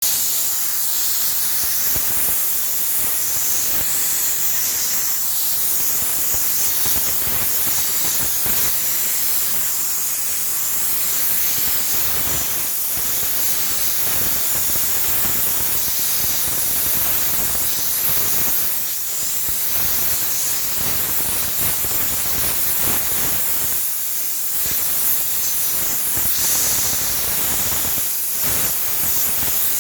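Steam cleaner's nozzle jetting steam with a continuous loud hiss, dipping briefly a few times as the jet is eased off or moved.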